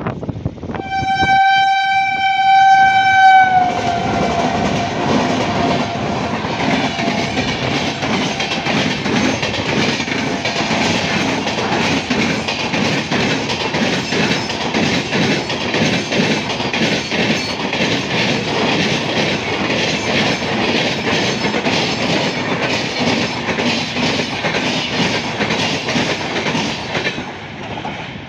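Express train passing at speed. The locomotive's horn sounds one long steady tone of about two and a half seconds, its pitch dropping as it passes. The coaches then run by with a fast, even clatter of wheels on the rails for over twenty seconds, fading near the end.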